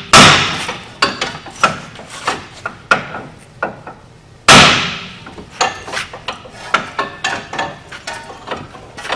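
Hammer blows on the front hub and knuckle assembly of a Dodge Ram 1500 to knock seized parts loose: two heavy ringing strikes about four and a half seconds apart, with lighter knocks every half second or so between and after.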